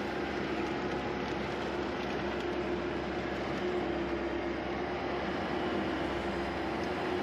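Skid steer engine running steadily at working speed, with a steady pitched whine over the engine noise.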